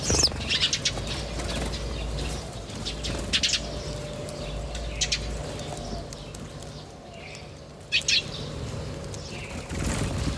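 Small birds chirping in short, high bursts several times, over a steady low background hum.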